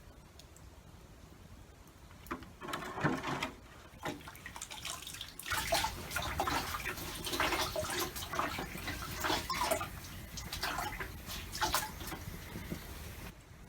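Water pouring and splashing with small knocks and clatter, starting about five seconds in and stopping suddenly near the end, after a few earlier handling clicks.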